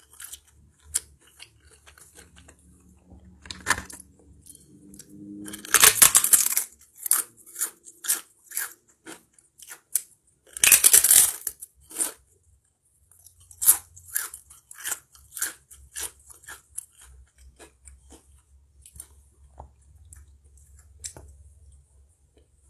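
Close-miked eating: chewing with many short wet mouth sounds and crisp crunching bites, loudest in two dense bursts of crunching about six and eleven seconds in.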